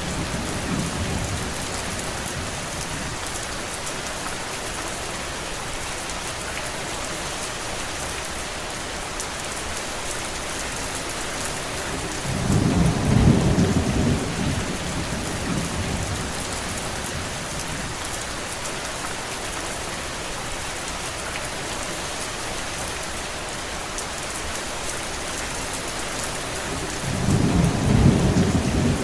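Steady heavy rain, an even hiss of drops. Twice, about halfway through and again near the end, a deep low rumble swells for about two seconds and fades.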